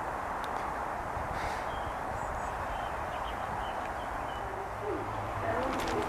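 Steady outdoor background hiss, with a bird calling in short, low, wavering notes near the end.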